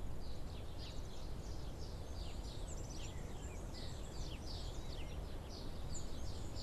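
Small birds chirping: many short, quick downward chirps, one after another, over a steady low outdoor background noise.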